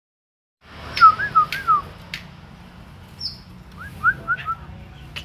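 Grey-cheeked bulbul (cucak jenggot) giving two short phrases of whistled, wavering notes about three seconds apart, with a brief higher chirp between them; it is a raw young bird not yet in full song. Sharp clicks and a low steady hum sit under the calls.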